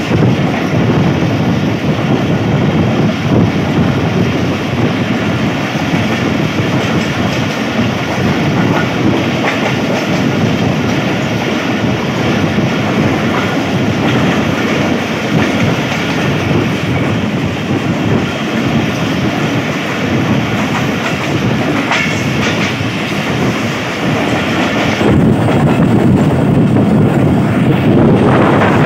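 Rumble and clickety-clack of a Pakistan Railways passenger train's wheels running over the track, heard from beside an open door of one of its moving coaches. The sound turns heavier and duller near the end.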